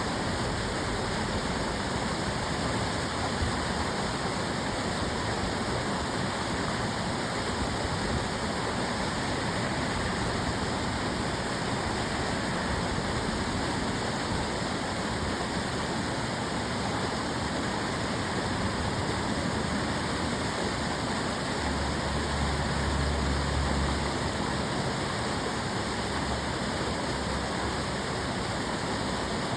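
Water of the Tamagawa Josui canal flowing and rushing steadily. A low rumble joins in for about two seconds, around three-quarters of the way through.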